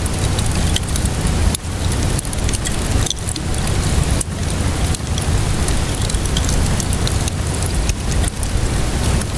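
Steady rainfall mixed with a crackling wood fire: a constant rushing hiss and low rumble, with many small sharp pops from the burning logs scattered throughout.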